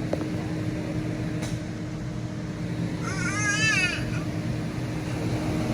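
A young child's high-pitched, wavering squeal, about a second long, about three seconds in, over a steady low hum inside the vehicle.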